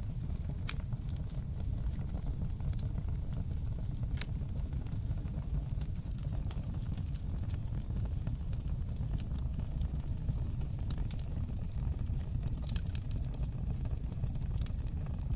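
Wood fire crackling in a fireplace: a steady low rumble of flames with scattered sharp pops and snaps, a cluster of them near the end.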